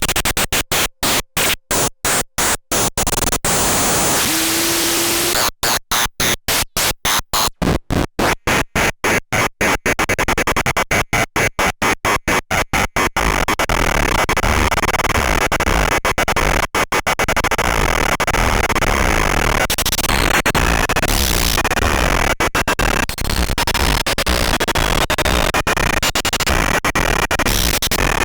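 Eurorack noise generator module (PARATEK & SynthWall Saturn) putting out harsh, hissing noise. At first it is chopped into rapid on-off bursts, several a second. About halfway through it settles into one continuous dense noise with a few faint high tones in it.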